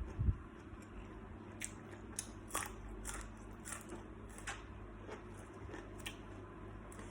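Close-miked chewing and biting on salt-baked shrimp: irregular crisp crunches and crackles, with a low bump at the very start and a steady low hum underneath.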